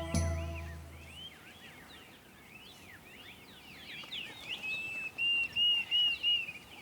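Weaver birds chattering with quick rising and falling chirps. About two-thirds of the way in, a Diederik cuckoo gives its call, a run of five or six clear whistled notes at one pitch, the call that warns of a brood parasite at the weavers' nest. A held music chord fades out in the first second.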